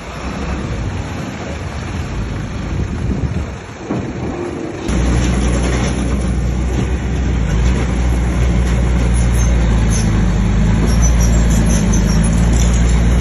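Heavy diesel engine of earthmoving machinery running under load, a rough rumbling at first; about five seconds in it jumps suddenly louder into a steady, deep engine drone.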